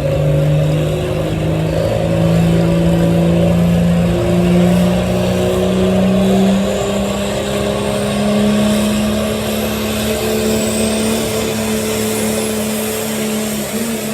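Four-wheel-drive pulling truck's engine at full throttle under heavy load, its pitch climbing slowly and steadily as it drags the sled.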